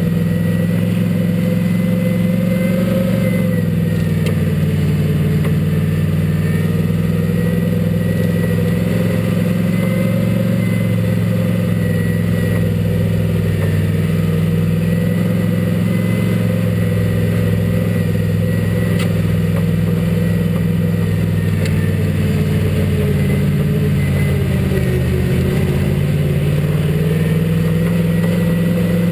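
Race car engine running steadily under power, heard from inside the caged cockpit, its pitch easing down and back up a little with the throttle a few seconds in and again near the end.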